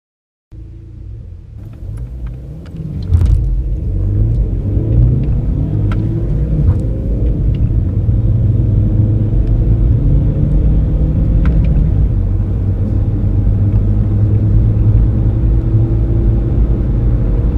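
Diesel car engine pulling hard under full-throttle acceleration, heard from inside the cabin as a heavy low rumble. It jumps in loudness about three seconds in and then holds steady, with a few faint clicks along the way.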